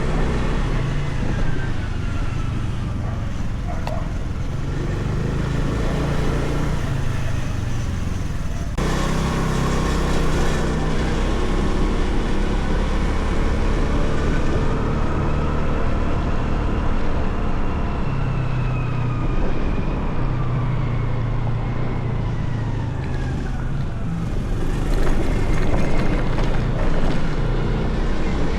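Motorcycle engine running under way, with road and wind noise; its pitch rises and falls slowly as the speed changes. The noise steps up about nine seconds in.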